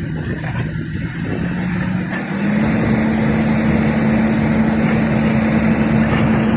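Excavator diesel engine running. About two seconds in it revs up, its pitch rising, then holds steady at the higher speed.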